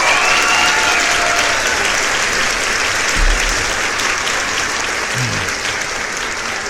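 Applause from a crowd, steady and dense, slowly fading toward the end.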